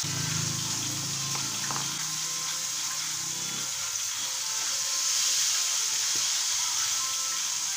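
Floured squid pieces frying in hot oil in a pan, a steady sizzle, while metal tongs turn them with a few light clicks. A low hum sounds under it for the first few seconds, then stops.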